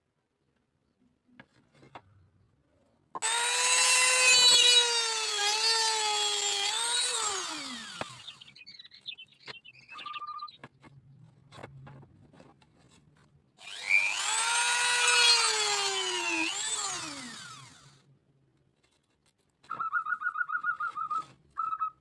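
Small high-speed electric drill working bamboo, run twice for a few seconds each. Its high whine dips in pitch as the bit bites and falls away as the motor spins down. A brief rapid pulsing buzz comes near the end.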